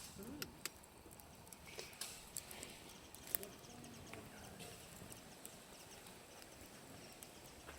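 Campfire crackling: faint, irregular pops and clicks from burning wood, with one sharper pop about three seconds in.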